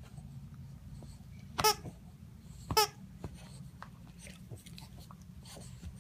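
Squeaky plush Chewbacca dog toy squeaking twice, two short high squeaks about a second apart as a Boston terrier bites it, with a few faint soft clicks between.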